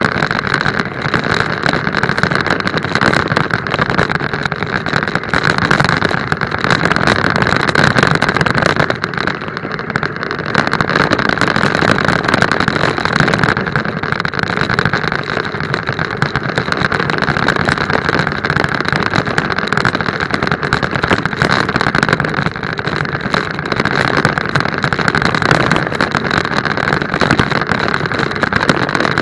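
A small vehicle's motor running steadily at speed, with a steady high whine over a rushing noise.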